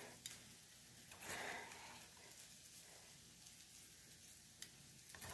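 Near silence: faint room tone, with a soft rustle about a second in and a light tap or two near the end.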